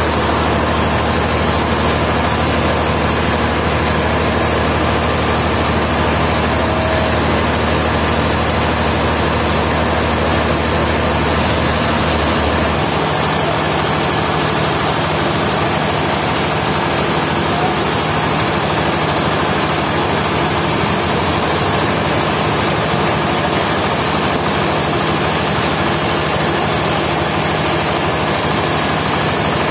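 Sawmill machinery running steadily: a loud engine drone under a wide noisy wash, with its low hum shifting about thirteen seconds in.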